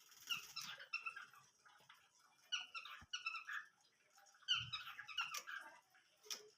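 Small cage birds chirping in quick clusters of short, squeaky calls, with a low thump about three seconds in and again a moment later.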